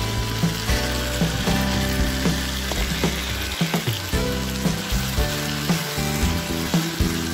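Goat kidney and testicle pieces sizzling in hot oil and tomato masala in a frying pan, while green chillies are stirred in with a spatula. Background music plays over the sizzling.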